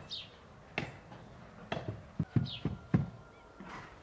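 A small bird gives a short falling chirp twice, among scattered sharp clicks and a quick run of dull knocks two to three seconds in, which are the loudest sounds.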